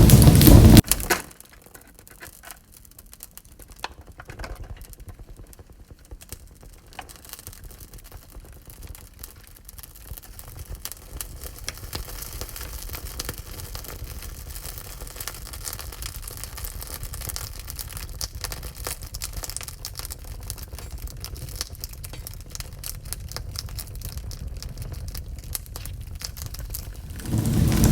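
Wood fire crackling in a wood-burning stove: many small, sharp pops and snaps over a quiet hiss. A loud rushing noise cuts off suddenly about a second in and returns near the end.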